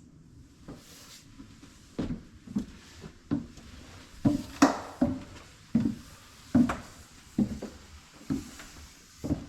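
Footsteps on a wooden church floor, a step about every three-quarters of a second, starting about two seconds in.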